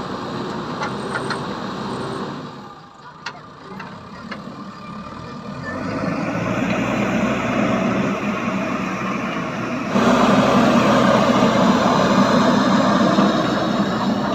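Heavy vehicle engine running. It dips about three seconds in, builds up again, then jumps suddenly louder about ten seconds in.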